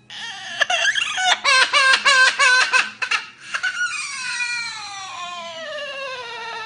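A pet bird giving a crying call like a baby's wail: a run of quick, wavering cries, then one long cry that slides steadily down in pitch.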